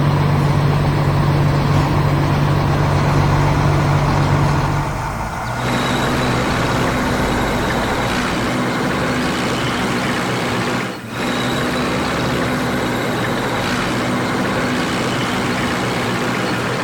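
Heavy truck engine running steadily, its note shifting higher about five seconds in and briefly cutting out around eleven seconds in.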